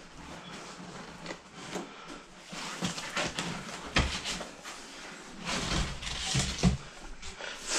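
A desktop computer tower and its packaging being handled: rustling and scraping with scattered clicks, and one sharp knock about four seconds in.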